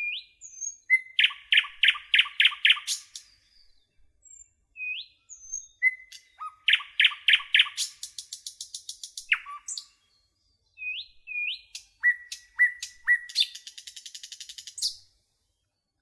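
A songbird singing three song phrases. Each phrase has a few short rising whistles, then a run of about six loud, evenly spaced notes, then a fast, high trill.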